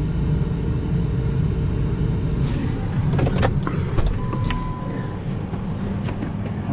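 Pickup truck engine idling steadily, with a few sharp clicks and clanks between about three and four and a half seconds in.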